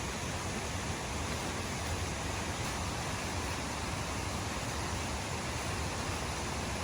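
Waterfall and flowing water rushing in a steady, unbroken roar of noise.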